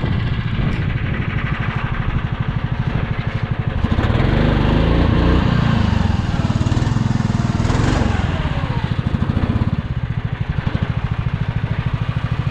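Snowmobile engine running at a fast pulsing idle, revved up and back down twice about halfway through.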